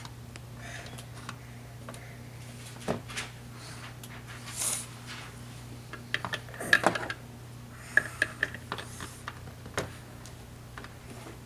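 Lego pieces being handled, with irregular sharp plastic clicks and clatters that come thickest about two-thirds of the way through. A steady low hum runs underneath.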